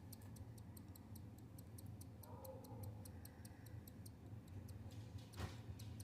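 Faint, rapid high-pitched ticking, about six ticks a second, that stops about five seconds in, followed by one sharper click.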